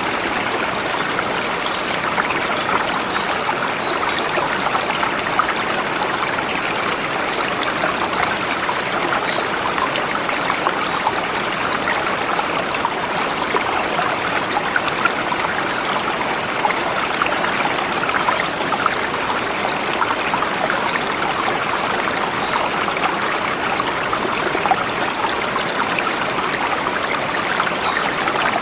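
Forest river flowing over smooth rocks: a steady rushing and babbling of water that does not change.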